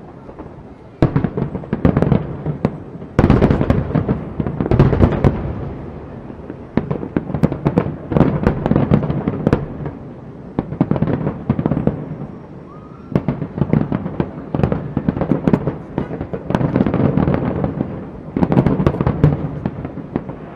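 Aerial fireworks display: shells bursting overhead in quick salvos every second or two, with dense crackling and a booming echo after each volley.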